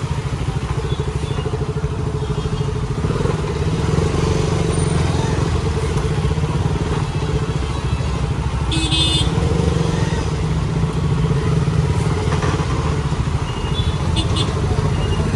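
Motorcycle engine running steadily while being ridden along the road, with a brief high-pitched tone about nine seconds in.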